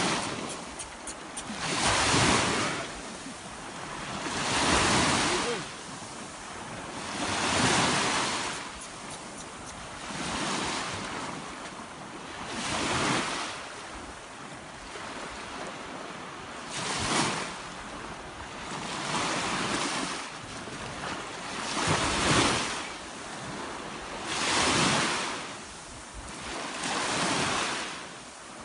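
Sea waves breaking on the shore of the Caspian Sea, each one swelling and washing out every two to three seconds, with wind buffeting the microphone.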